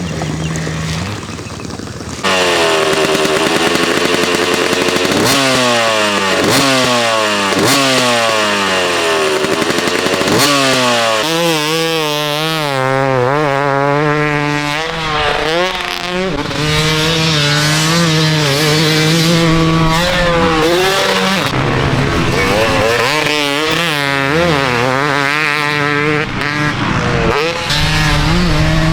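Yamaha YZ250 two-stroke dirt bike being ridden hard. The engine revs up again and again and drops back between revs, going up through the gears and backing off. It gets loud about two seconds in.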